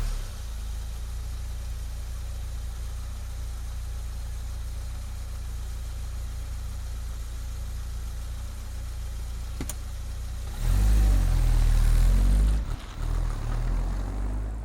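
Vauxhall Carlton car engine idling steadily, with one sharp click partway through, then revved up twice near the end.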